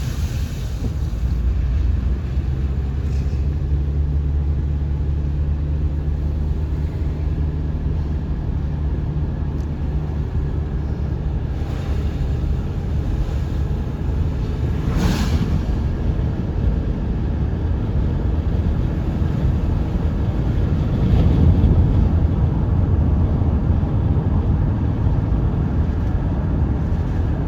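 Steady low rumble of a car's engine and tyres heard while driving, with a brief louder rush about halfway through.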